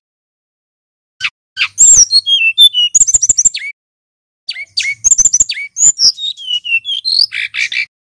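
Male brown-chested jungle flycatcher singing loudly in two phrases, each a quick run of high chirps and whistled notes that slide downward, with about a second of silence between them.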